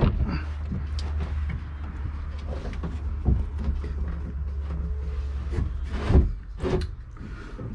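Scattered knocks and sliding, scraping sounds of hands and tools working at a fuel tank and its fittings inside a boat hull, over a low steady hum that drops away about six seconds in.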